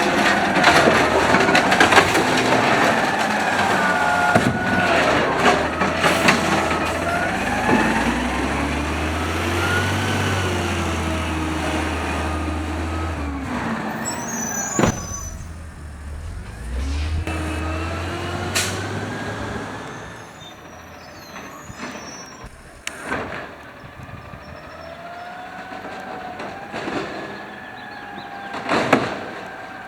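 2012 automated side loader garbage truck working its hydraulics, the engine revving up and falling back again and again, with scattered metal bangs and clanks from the arm and can handling.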